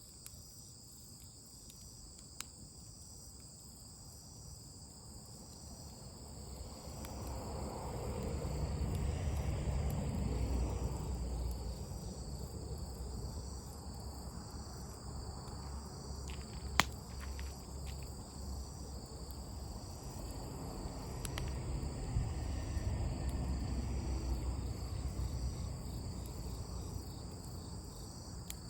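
Crickets chirping in a steady, high-pitched, pulsing chorus. A low rumble swells up twice beneath them, and there is a single sharp snap about halfway through.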